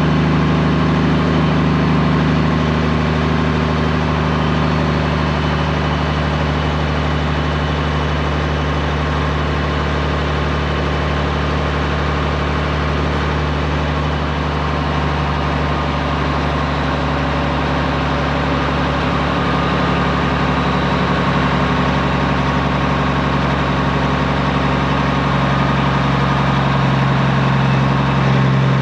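Straight-piped Peterbilt 389's diesel engine running at a steady, unchanging note.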